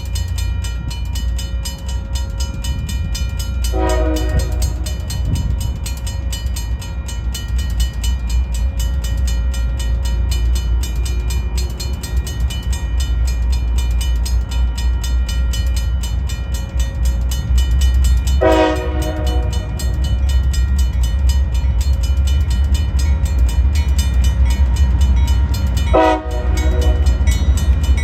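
Diesel freight train running by with a steady low engine rumble and rolling wheel clatter. The locomotive's horn sounds three short blasts, about 4, 18 and 26 seconds in.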